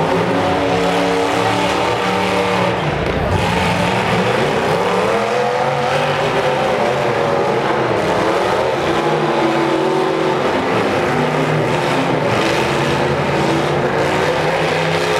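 Several demolition derby cars' engines revving hard at the same time, their pitches rising and falling as they spin their wheels in the dirt.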